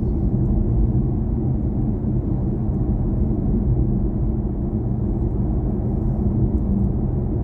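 Steady road and tyre rumble inside the cabin of a BMW i4 M50 electric car driving along, with no engine note.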